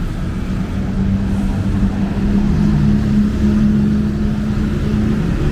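A motor vehicle's engine running close by: a steady low hum, with a second, slightly lower hum joining about halfway through, over street traffic rumble.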